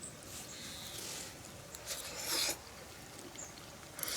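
A fork scraping at fried food: a long soft rasp, then a louder short one about two seconds in, with a couple of light clicks near the end.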